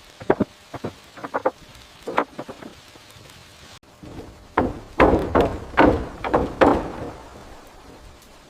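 Hand tools striking timber in a series of short wooden knocks: lighter, quicker blows for the first few seconds, then a louder run of five or six heavier blows in the middle.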